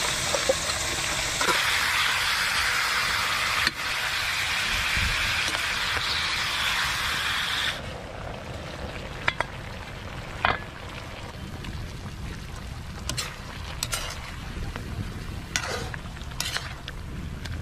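Fish pieces sizzling in a hot metal wok. The sizzle drops off sharply about eight seconds in as the wok is covered with a lid, leaving a quieter simmer. A few sharp metal clinks and scrapes of a spatula against the wok follow toward the end.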